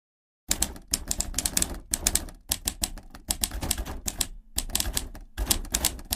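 Typewriter keys clacking in rapid runs of sharp strikes, with a brief pause just past the middle.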